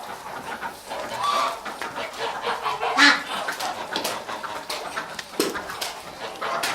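Farmyard poultry calling: a run of short, scattered calls, the loudest about three seconds in.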